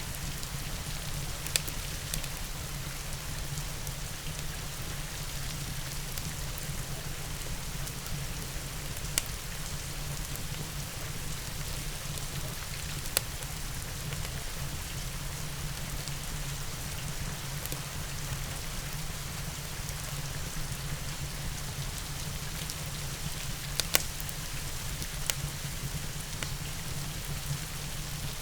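Steady rain falling, with a wood fire crackling under it and a few sharp pops spread through.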